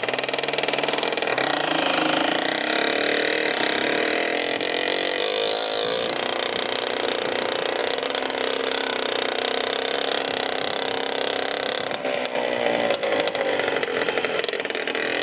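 Motorcycle engine running, its pitch rising over the first couple of seconds and then holding steady, with a change in the engine note about twelve seconds in.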